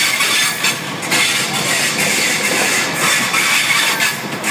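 East Coast intercity passenger coaches rolling past close alongside a platform: a steady rushing of wheels and air, with a few faint clacks from the wheels over the rails.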